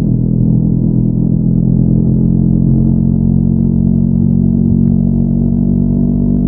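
Honda NX500's parallel-twin engine running at a steady, nearly constant speed through its stock exhaust, a loud, even drone of low tones.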